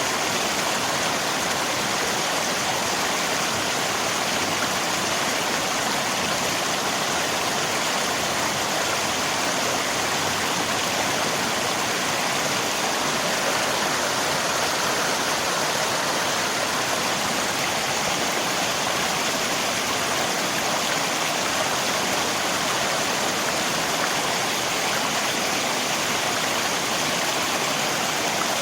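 Rain and flowing river water together: a steady, even rush of water with no breaks or separate sounds.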